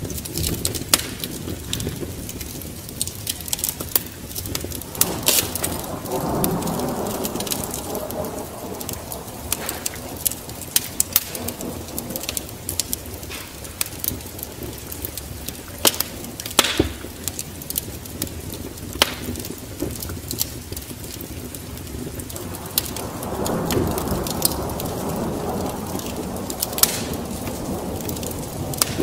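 Wood fire crackling, with many sharp snaps and pops over a steady rain hiss. Two slow swells of louder rushing noise build and fade, about 5 seconds in and again about 23 seconds in.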